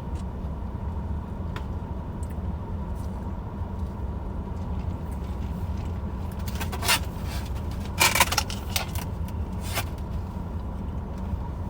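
A few brief crackles and rustles of someone eating and handling fried wings and fish, about seven, eight and ten seconds in, over a steady low rumble.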